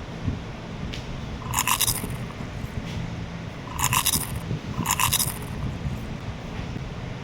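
A small child chewing and biting cake close to the microphone, with wet mouth noises throughout. Three short metallic clinks ring out about one and a half, four and five seconds in.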